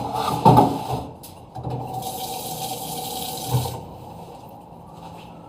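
Dishes clatter at the start, then a kitchen tap runs for about two seconds and shuts off abruptly.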